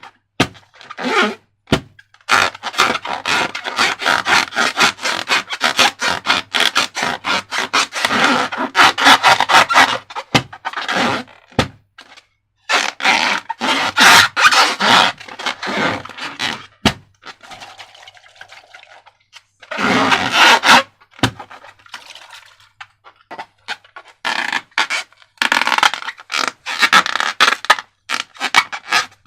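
Slime being handled and squished with balloons: dense sticky crackling, clicking and scraping, with a couple of quieter pauses in the second half.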